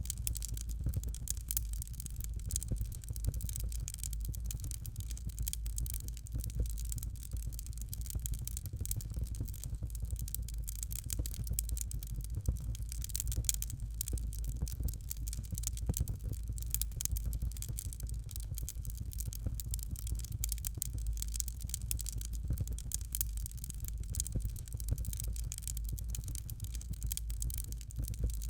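Fire crackling in a fireplace: a dense run of small pops and snaps over a steady low rumble.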